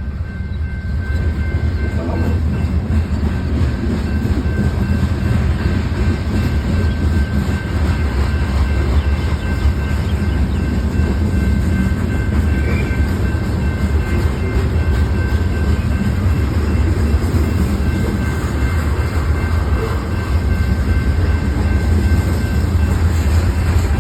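BNSF train rolling past, a steady rumble of wheels on the rails with some clickety-clack, and faint steady high tones over it.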